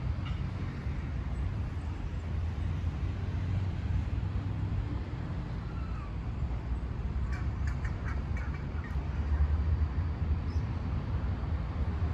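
A quick series of short bird calls about seven to nine seconds in, over a steady low rumble.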